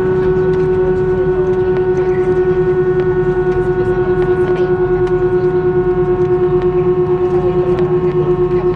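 Airbus A320's jet engines idling, heard from inside the cabin: a steady hum with a strong low tone and fainter higher tones, pulsing in a quick regular beat.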